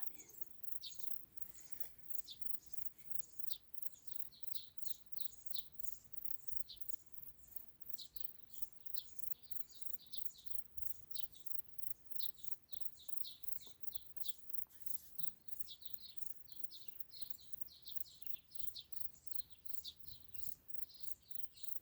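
Small birds chirping repeatedly, over an even, very high-pitched pulsing about three times a second.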